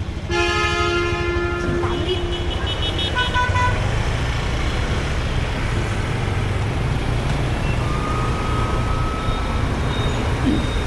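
Vehicle horn honking once for about a second and a half, followed by a few short, higher-pitched beeps, over a steady low rumble.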